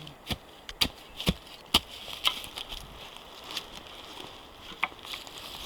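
Footsteps on the forest floor, with sharp crackling snaps of twigs and dry litter underfoot, about two a second at first and then more spaced out.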